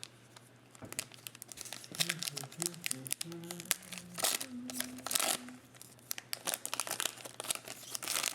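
Plastic trading-card pack wrappers crinkling and tearing as packs are opened, with irregular crackles and clicks throughout, busiest in the middle.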